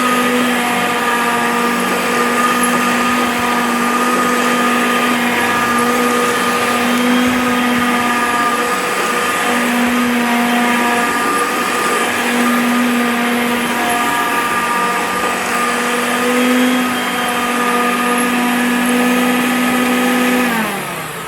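A 1980s Hoover Concept 2 self-propelled upright vacuum cleaner running steadily with a strong motor hum and whine. It is switched off in the last second, its motor winding down in pitch.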